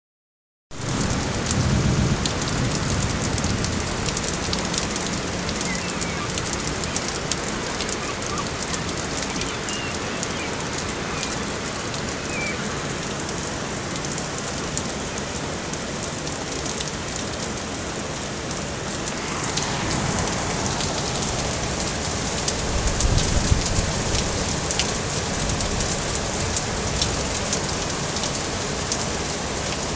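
Heavy rain falling steadily during a thunderstorm, drops ticking on hard surfaces close by. A low rumble of thunder swells about two-thirds of the way through.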